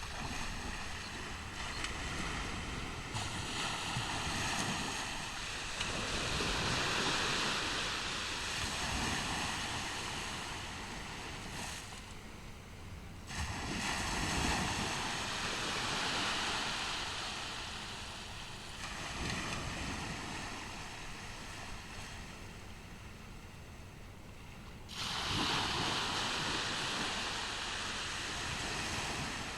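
Ocean surf on a beach: a continuous wash of waves that swells and ebbs, louder again about 14 seconds in and rising suddenly about 25 seconds in.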